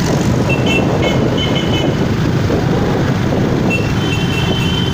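Motorcycle engines running as a line of bikes rides past in a parade, a steady loud mass of engine noise. Short high-pitched tones come through about a second in and again near the end.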